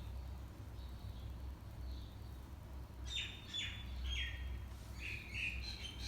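A small bird chirping: faint at first, then from about halfway through a quick series of short, high, downward-sliding chirps, over a steady low hum.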